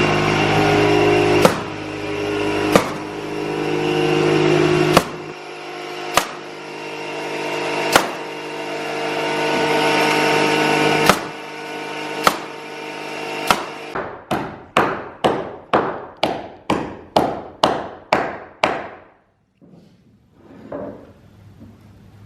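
A power tool runs with a steady hum that swells and drops, broken by sharp knocks. Then a hammer drives nails with about a dozen quick, even blows, around two or three a second, while re-joisting an attic floor.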